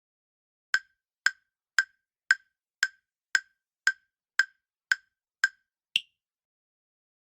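Quiz countdown-timer sound effect: ten short, sharp ticks about two a second, then one final tick at a higher pitch.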